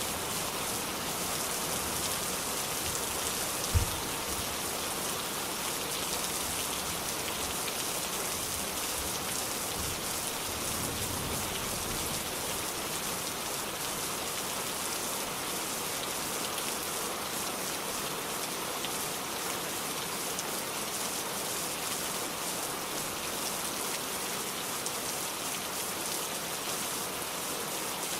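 Steady rain falling on a surface, an even hiss of drops, with a brief low thump about four seconds in.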